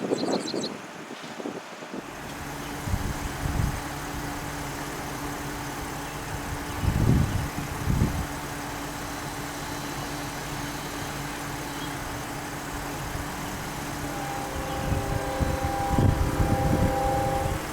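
Diesel locomotive engine running steadily, with a low rumble swelling a few times, like wind on the microphone.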